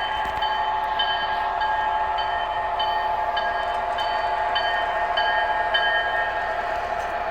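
O scale model train running at a slow scale speed: a steady hum with a high tone pulsing evenly about twice a second.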